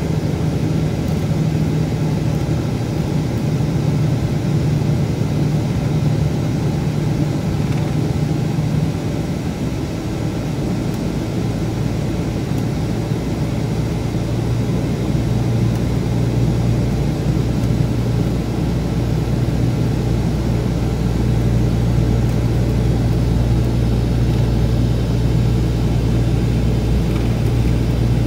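Scania K410B coach's 13-litre straight-six diesel engine running steadily. Its note drops to a lower, deeper tone about ten seconds in.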